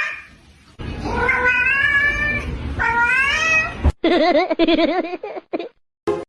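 Cat meowing: two long, drawn-out meows, then a lower, wavering cry.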